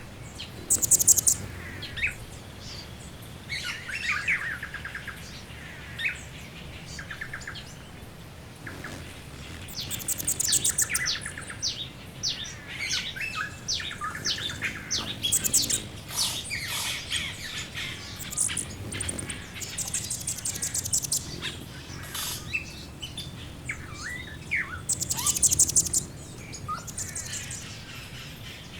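Several birds calling at once: a dense mix of short chirps and fast high trills, overlapping throughout, over a faint low background rumble.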